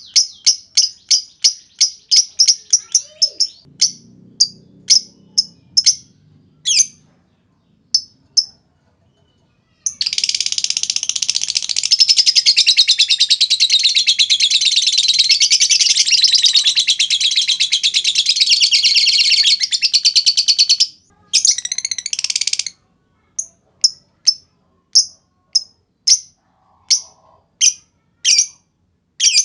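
Lovebird calling: a fast run of sharp high chips ('ngetik') that slows and thins out, then about ten seconds in a long unbroken rattling chatter ('ngekek panjang') lasting about eleven seconds, followed by spaced single chips again.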